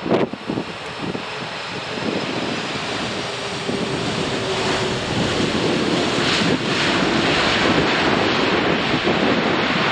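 Strong wind buffeting the microphone, with the jet engine noise of a Boeing 747-400 on final approach growing steadily louder.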